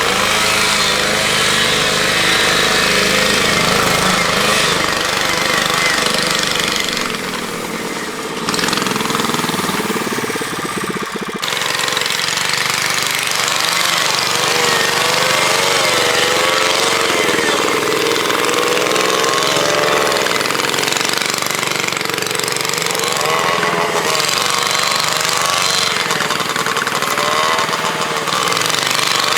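Engines of a home-built three-engine motorcycle running hard with a rapid, rattling beat, their pitch repeatedly rising and falling as they rev and labour under load in mud and water.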